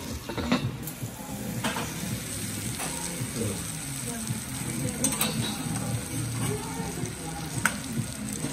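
Butter sizzling steadily on a teppanyaki steel griddle under frying kurumafu French toast, with a few sharp metal clinks.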